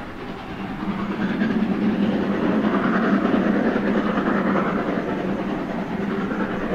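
Approaching train running on the line, not yet in view, growing louder about a second in and staying loud.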